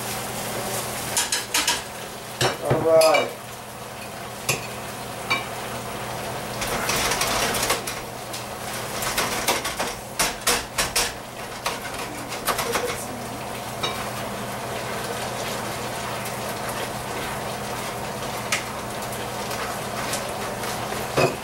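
Metal cookware clinking, knocking and scraping as a wok is worked on the stove, with food sizzling in hot oil. The knocks come thickest in the first half and thin out later, over a steady low hum.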